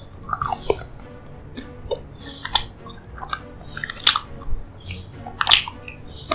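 Close-up wet chewing of a soft, sticky dessert, with irregular mouth smacks and clicks, the loudest about a third, two thirds and most of the way in. Faint background music underneath.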